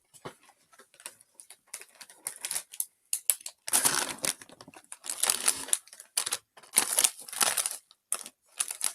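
Plastic snack packaging crinkling as it is handled, in irregular crackly bursts that are strongest in the middle and later part.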